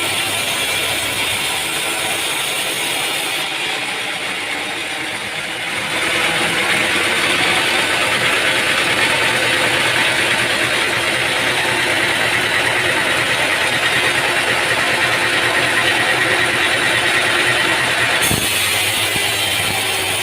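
Sawmill machinery running with a steady engine-like noise, growing louder about six seconds in. The tone shifts abruptly twice, once near the start and once near the end.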